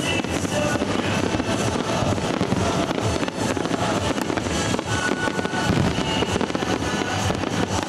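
Fireworks display going off: a dense, continuous run of crackling and popping shell bursts, with no single standout bang.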